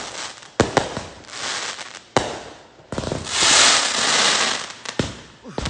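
Aerial fireworks going off: several sharp bangs of bursting shells, with a loud hissing crackle lasting about a second and a half in the middle.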